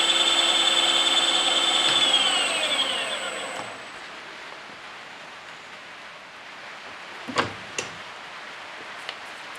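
Milling machine's motor and spindle running steadily, then switched off about two seconds in and winding down, its whine falling in pitch until it stops. Two sharp knocks follow later on, with a faint click near the end.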